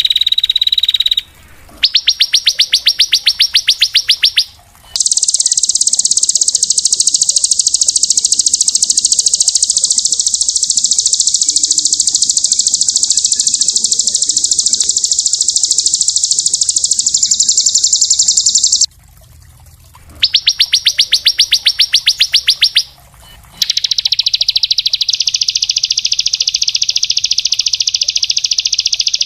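Small songbird singing very fast, dense high trills. Long unbroken trills alternate with short runs of rapid rattling notes, about ten a second. Each stretch starts and stops abruptly.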